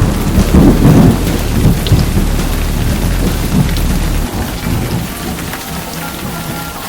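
Thunderstorm sound effect: steady heavy rain with rolling thunder, loudest in the first few seconds and dying away about four seconds in.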